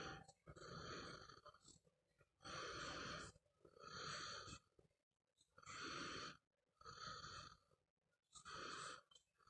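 Slow, rhythmic snoring or heavy breathing, each breath drawn in and let out in two noisy pushes, repeating about every three seconds.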